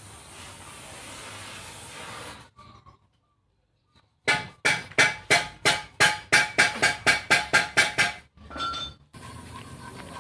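Metal struck repeatedly with a hammer, about sixteen sharp blows that ring after each strike and come faster as they go. Before them there is a steady hiss, and then a sudden cut to silence.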